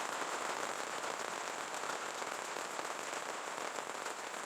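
Steady rain falling, a dense even patter of many small drop ticks.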